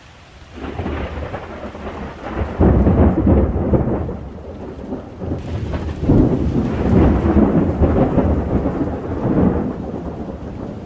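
Thunder rumbling in long rolls over steady rain; the rumble swells about two and a half seconds in and again around six seconds in, then eases toward the end.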